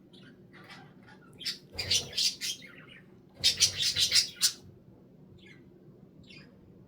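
Budgerigar chattering and warbling: two loud runs of rapid high chirps, about a second and a half in and again around three and a half seconds in, with softer scattered chirps between and after.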